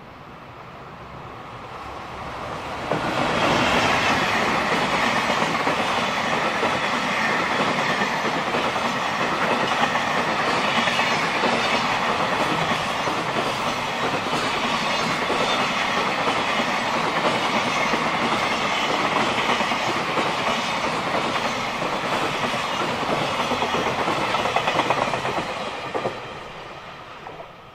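JR Freight EF210 electric locomotive and its long rake of Koki 107 container wagons passing close by. The noise builds over the first three seconds as the locomotive arrives, holds as a loud, steady run of wheels rumbling and clattering over the rails, then falls away quickly near the end as the last wagon goes past.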